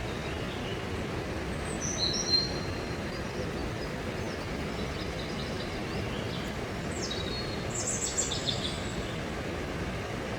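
Steady rushing noise of a waterfall, with a small bird chirping briefly about two seconds in and again in a quick series near the end.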